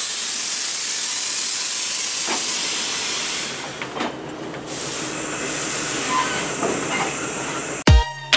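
Passenger coaches of a Bangladesh Railway intercity train rolling past close by: a steady rushing hiss of wheels on rail with a few faint clicks. About 8 seconds in, it cuts to music with a heavy beat.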